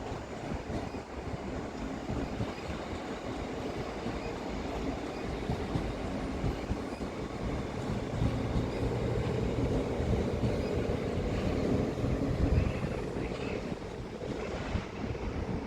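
Train running on the tracks: a steady rumble with a low hum that grows stronger about halfway through, and wind buffeting the microphone.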